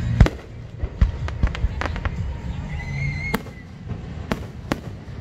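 Fireworks exploding overhead: a string of about eight sharp bangs at uneven intervals, the loudest two in the first second, over a steady low rumble.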